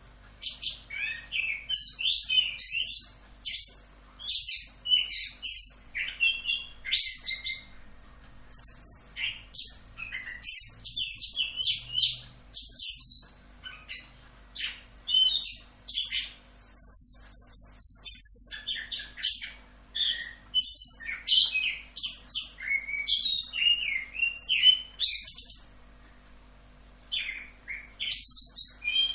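Chestnut-capped thrush (anis kembang) singing in long, almost unbroken rolls of quick, varied whistled phrases, with a short pause near the end. A faint steady hum lies underneath.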